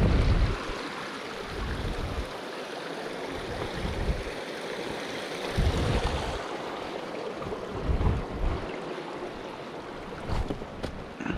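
Steady rush of flowing water, with wind buffeting the microphone in repeated low gusts and a couple of light clicks near the end.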